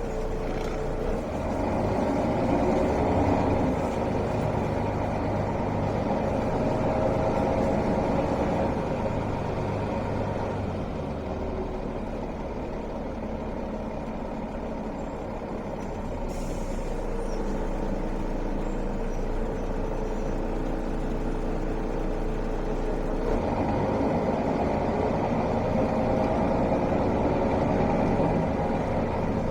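Mercedes-Benz O405 city bus's diesel engine heard from inside the bus: pulling harder for the first ten seconds or so, easing off through the middle, then pulling again a little past twenty seconds. A brief hiss about sixteen seconds in.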